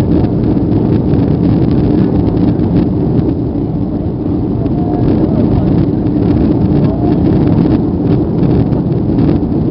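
Steady, loud engine and airflow noise of a Boeing 757-300 heard from inside the passenger cabin during take-off, a low, even rumble with no pauses.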